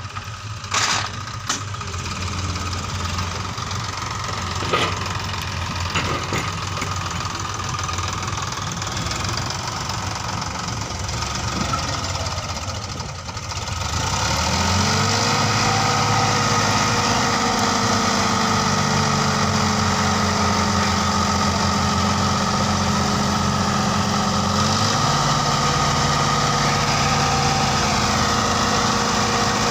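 Diesel tractor engine idling, with a few sharp knocks in the first six seconds, then revving up about halfway through and holding steady at higher speed under load.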